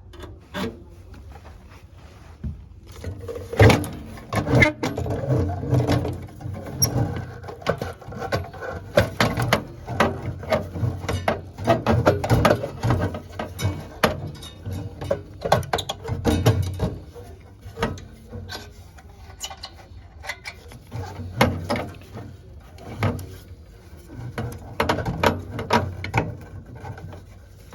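Irregular clicks, knocks and rattles of parts and tools being handled. They start about three seconds in and come in busy stretches with short pauses, over a faint steady low hum.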